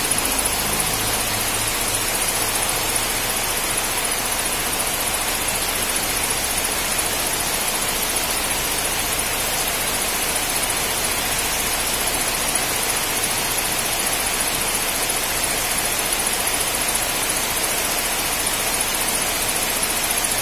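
Car engine idling steadily, with a steady hiss over it.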